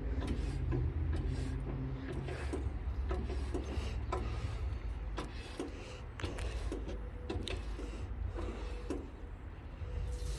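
Irregular metallic clicks and knocks from a band sawmill blade being changed and tensioned, over a low steady rumble.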